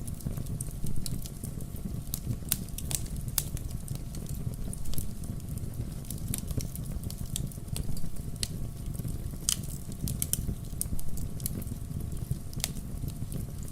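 Wood fire crackling: irregular sharp pops and snaps over a low steady rush.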